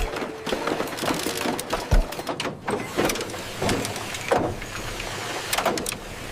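A rapid, irregular run of clicks and knocks, cartoon sound effects of wood or objects being handled.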